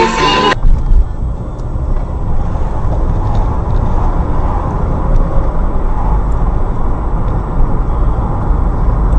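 Steady low rumble of a car driving, engine and road noise together, with a couple of brief knocks about a second in. Music cuts off about half a second in.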